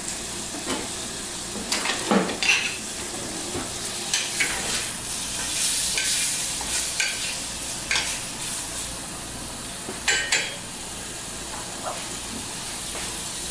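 Chicken skins and tail bones frying in a pan to render chicken oil, with a steady sizzle. A utensil stirring them knocks against the pan a few times.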